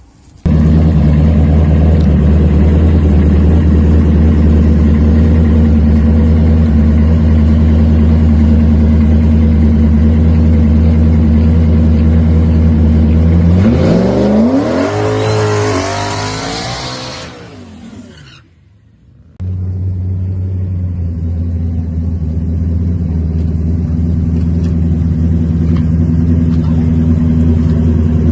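Drag-racing vehicle's engine running loud and steady at the line, then launching: its pitch sweeps upward as it pulls away and fades out. After a short break, another engine runs loud and steady.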